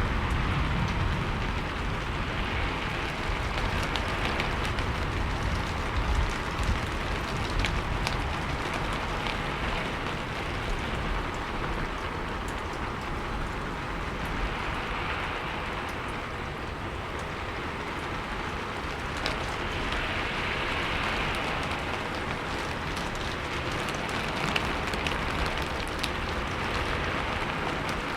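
Steady rainfall, an even hiss with scattered drop ticks. A low rumble fades away in the first second.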